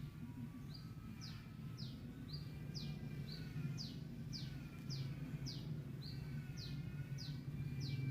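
A bird calling over and over, short downward chirps about two a second with a few short flat notes mixed in, over a steady low hum.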